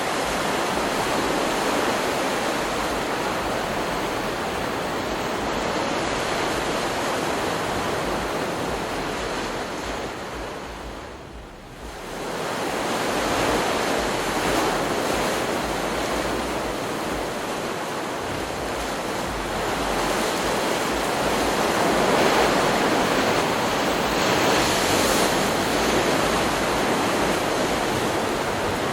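Ocean surf from a stock beach-sound recording: waves breaking and washing in a continuous rush that swells and eases. The rush drops away briefly about eleven seconds in, then builds again to its loudest a little past the middle.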